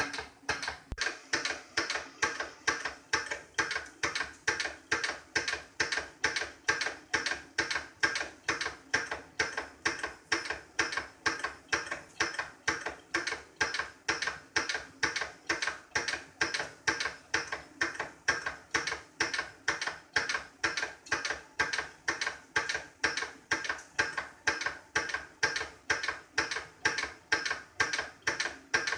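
Vintage toy live-steam engine running, with a regular mechanical clicking about twice a second.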